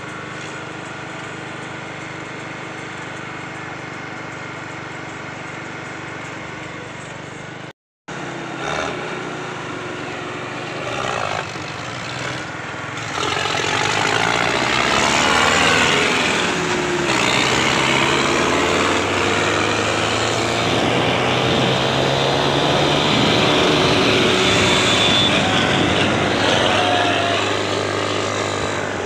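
Diesel tractor engines: first a steady idle, then, after a sudden cut about eight seconds in, engines running hard and revving. The sound grows louder from about thirteen seconds, with the pitch rising and falling.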